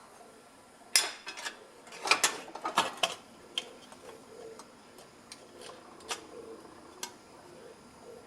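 Small metal objects clinking and clattering: a quick burst of knocks about a second in, then a handful of separate ticks spread through the rest.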